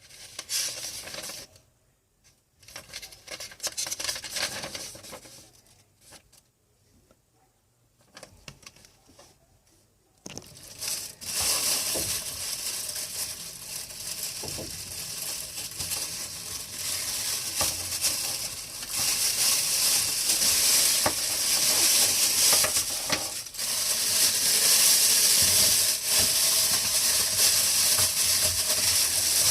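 Tower fan running with a steady rushing air hiss that sets in about ten seconds in and steps up louder twice, near two-thirds and three-quarters through. Before it there are short, broken rustling and handling noises.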